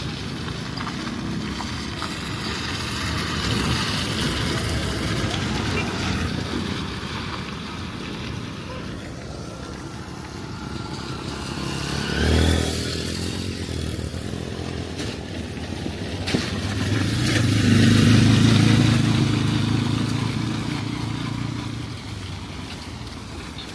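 A vehicle engine passing close by twice: a brief pass about halfway through, then a longer, louder one a few seconds later that fades near the end. Both run over a steady hiss.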